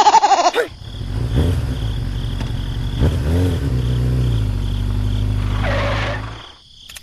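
An engine running with a low rumble, revving up and back down about three seconds in, then holding steady and cutting off suddenly near the end. A short, loud, pitched sound that falls in pitch comes at the very start.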